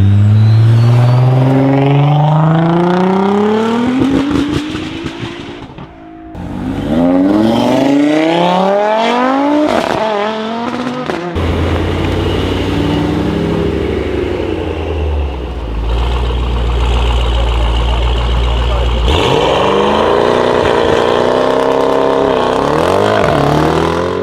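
Sports car engines and exhausts accelerating hard at full throttle, the pitch climbing steeply through the revs twice with a brief drop about six seconds in. Then a deep steady rumble, and near the end the revs rise and fall.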